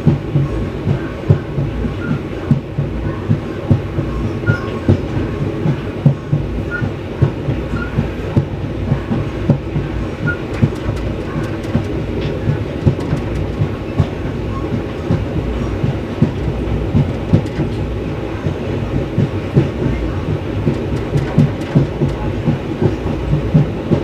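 Express train coaches running at speed, heard on board: a steady rumble with the wheels clattering over rail joints in an uneven run of knocks.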